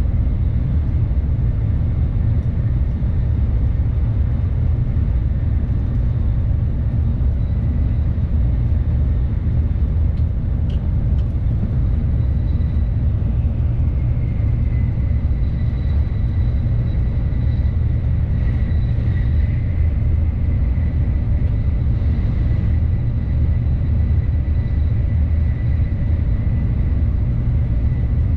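Tokaido Shinkansen train running at speed, heard inside the passenger car: a steady low rumble with a faint high whine that is clearer in the second half.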